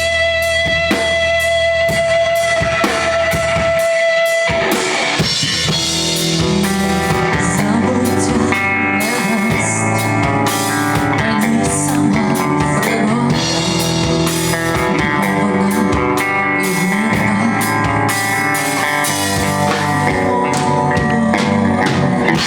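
Rock band playing an instrumental passage on guitar, bass and drum kit. A long held guitar note gives way about four seconds in to a busier guitar line over the rhythm section.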